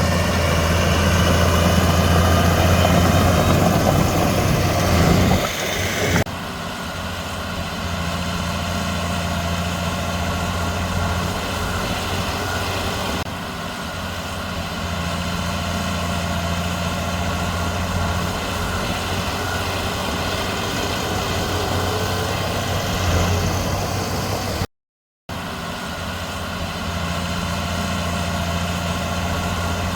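Komatsu D31P bulldozer's diesel engine running, louder and harsher for the first five seconds or so, then settling to a steadier run. The sound cuts out for a moment near the end.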